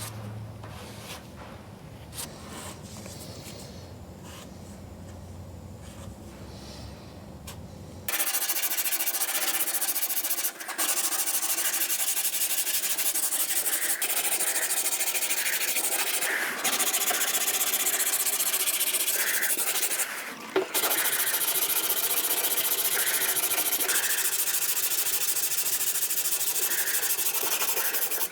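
Dual-action (DA) sander running steadily on hardened body filler over a car quarter panel, starting about eight seconds in after a quieter stretch and briefly lifting off twice.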